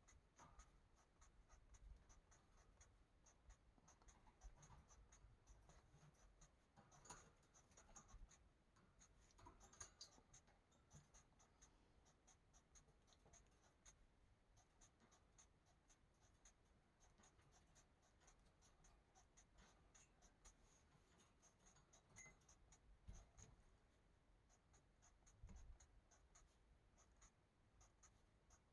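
Faint scratching of a marker tip drawing short strokes across a colouring-book page: a steady run of quick little scratches, with a couple of soft knocks later on.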